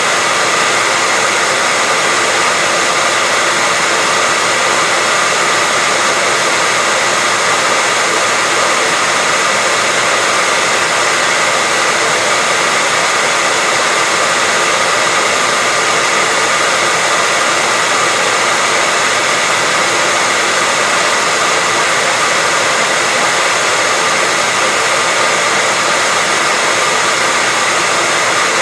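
Hair dryer blowing steadily, a constant loud whooshing hiss with a faint steady whine, unchanging throughout.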